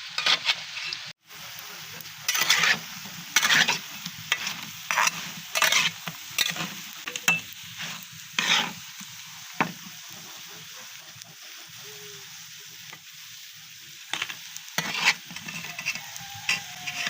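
Food frying in hot oil in a pan, sizzling steadily, while a spatula stirs and scrapes it in irregular strokes. The stirring pauses for a few seconds past the middle.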